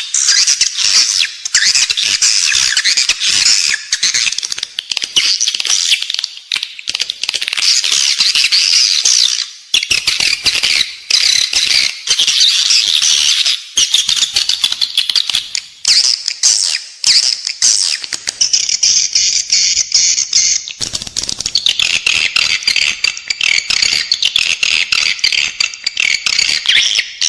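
Edible-nest swiftlet call recording: a dense, loud chatter of high twittering chirps and rapid clicks, the lure sound played inside a swiftlet house to draw the birds in to nest.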